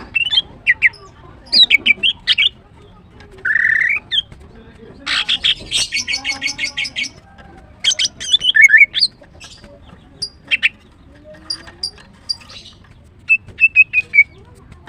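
Female greater green leafbird calling: bursts of sharp, high chirps and whistled notes, with a rapid chattering run of about ten notes about five seconds in and scattered single notes toward the end.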